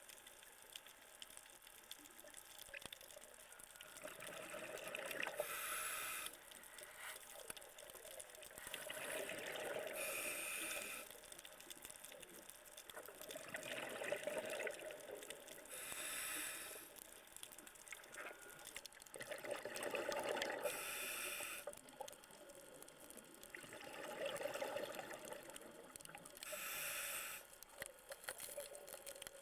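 Scuba diver breathing through a regulator underwater: a hiss on each inhale, then a rush of exhaled bubbles, about five breaths spaced roughly five seconds apart.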